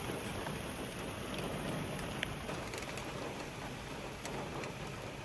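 Steady rain falling, an even hiss with a few sharp ticks of single drops.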